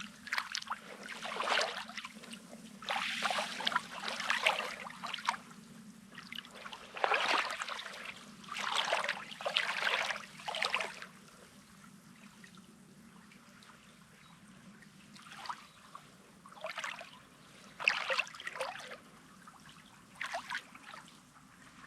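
Small sea waves lapping and splashing on a pebbly shoreline in irregular washes, frequent for the first half, then sparser and fainter.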